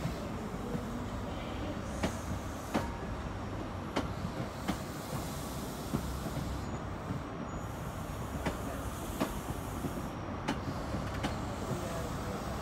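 Passenger train coaches rolling slowly past under a steady low rumble, their wheels clicking over a rail joint in pairs, about one pair every two seconds.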